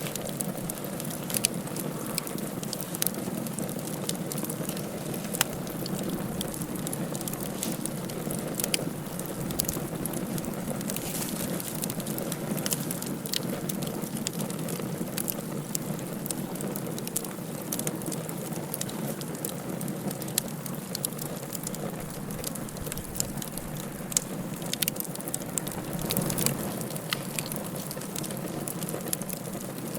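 Wood fire burning in a fireplace: a steady low rush of flames, with frequent sharp crackles and pops at irregular intervals.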